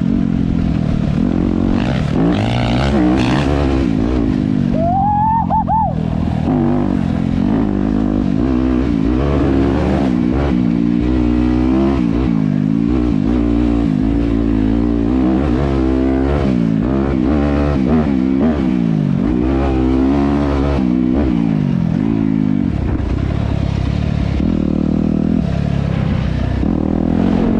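Dirt bike engine running hard under way, its pitch rising and falling over and over as the throttle opens and closes.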